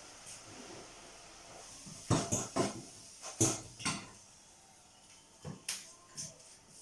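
Plates and cutlery knocking and clinking, a cluster of sharp clatters about two seconds in and a couple more near the end.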